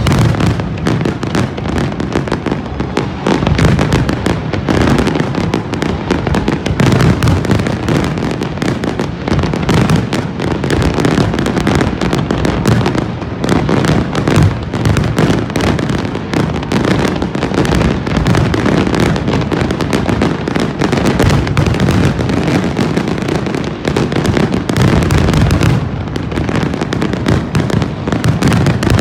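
Aerial fireworks display going off in a dense, continuous barrage: rapid overlapping bangs and crackles with no pause.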